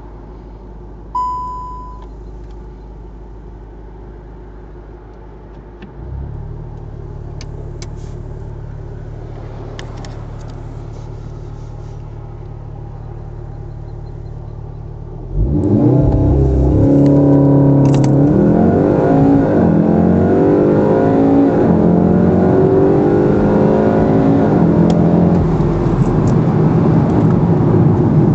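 Volkswagen Golf Mk7 R's turbocharged four-cylinder idling, with a short beep about a second in. Near six seconds the revs jump and are held steady, as on a launch-control hold. At about fifteen seconds it launches and accelerates hard, the engine note climbing again and again, with a quick drop at each DSG upshift.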